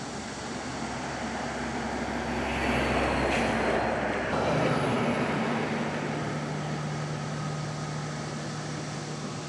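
A motor vehicle's engine running, its noise swelling to a peak a few seconds in and then easing to a steady hum.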